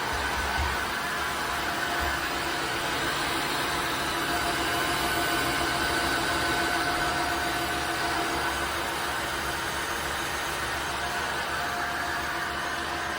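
Tineco iFloor 5 Steam wet-dry floor washer running steadily, its motor giving a constant whine over a rushing noise.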